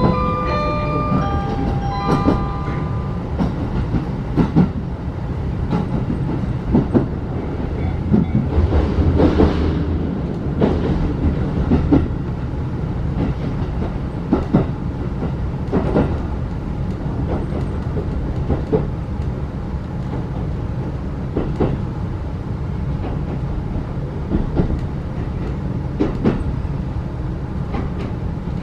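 Running noise inside a 35-series passenger coach on the move: a steady low rumble of wheels on track, with irregular sharp clacks as the wheels pass over rail joints. The noise swells for a few seconds a third of the way in.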